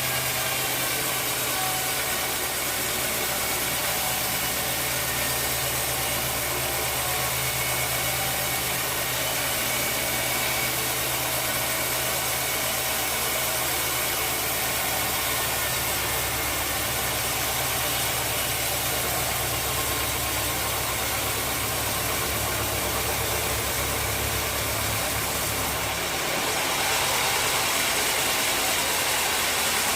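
Sawmill machinery running steadily with a low engine-like hum and a constant hiss. About 26 seconds in, the deepest part of the hum drops away and the hiss gets a little brighter.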